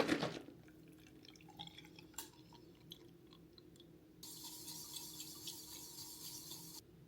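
A clatter fades out at the start, a few small clicks and knocks follow, and then water runs steadily for about two and a half seconds before stopping abruptly.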